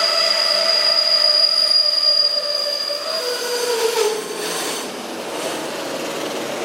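Wheels of a passing freight train of Koki container wagons squealing in several steady high tones, which die away about three to four seconds in with a short falling note. The plain rolling rumble of the wagons on the rails carries on after that.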